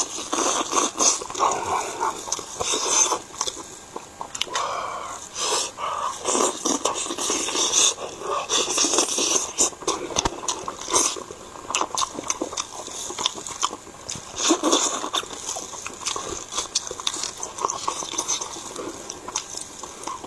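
Close-up eating sounds: chewing, biting and wet lip-smacking on fried chicken thighs, with meat being pulled off the bone by plastic-gloved hands, as irregular sharp clicks and squelches.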